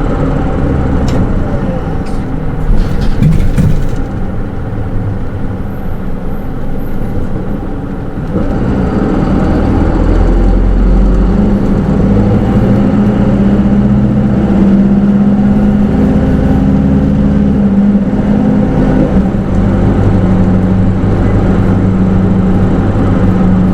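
Hino Rainbow II city bus with automatic transmission, its diesel engine and drivetrain heard from inside the cabin. It is quieter for the first eight seconds or so, then picks up about eight seconds in and runs under load with a steady low drone.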